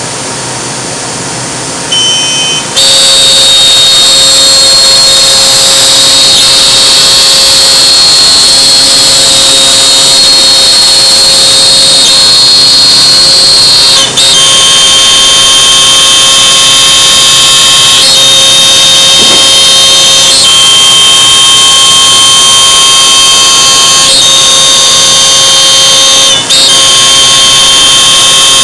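Laguna CNC router's spindle running loud and steady with a high-pitched whine, starting about three seconds in, dipping briefly twice.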